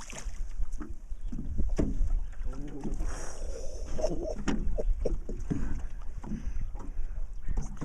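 Wind rumbling on the microphone in a small fishing boat, with scattered knocks and clunks of handling and moving about, and brief muffled voices.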